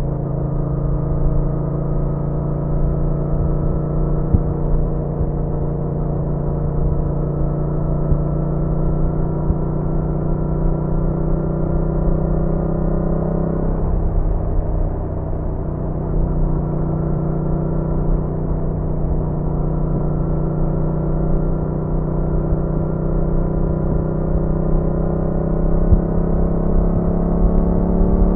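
Yamaha MT-07's parallel-twin engine and exhaust running under way. The pitch creeps up, falls about halfway through, then climbs slowly again.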